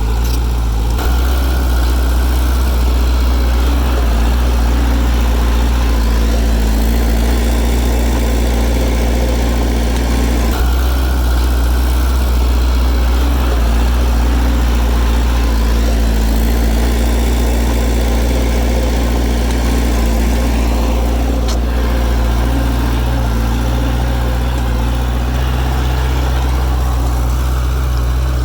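Heavy diesel engine of earthmoving machinery running steadily with a strong low drone; its note shifts a little about a second in, near the middle and again about two-thirds of the way through.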